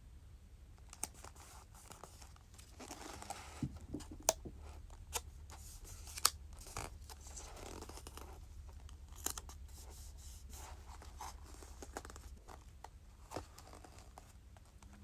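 Packing a parcel by hand: packaging material rustling and being handled, with scattered sharp clicks and snaps, the loudest two about four and six seconds in.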